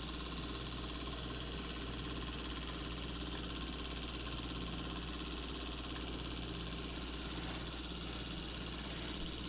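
Small Stirling engine running steadily, a continuous mechanical hum with a fast, even rhythm.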